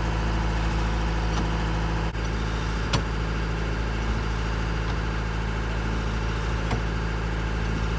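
A sailboat's engine running steadily with an even low drone, and a faint click about three seconds in.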